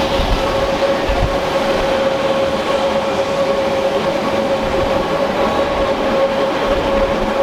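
Rhaetian Railway electric train running along the track: a steady rumble with a steady whine held over it.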